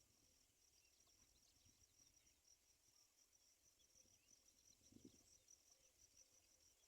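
An insect chirping faintly in a steady, fast train of high-pitched pulses, with a short low thump about five seconds in.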